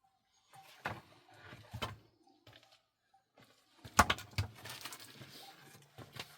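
A few separate knocks and clatters of objects being handled, the loudest about four seconds in.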